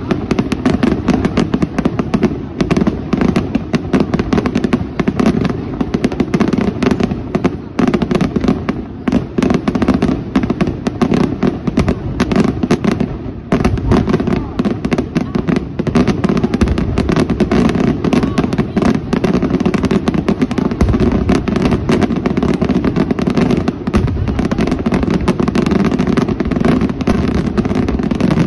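Aerial fireworks shells bursting in a dense, continuous barrage of rapid bangs and crackling reports, with a short lull about thirteen seconds in.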